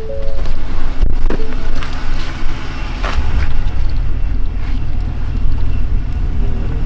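Motor vehicle running, a steady low rumble, with a few knocks and rattles.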